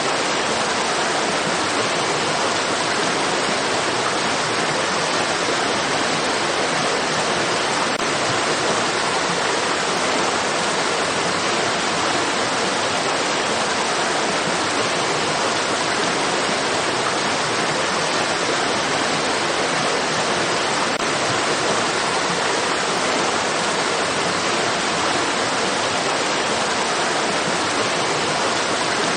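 Rushing water of a stream, an even, unchanging hiss.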